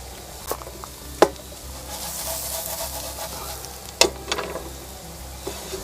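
Chicken of the woods mushrooms frying in butter, a steady sizzle that swells for a second or so in the middle, with sharp knocks of a utensil against the pan about a second in and again near four seconds.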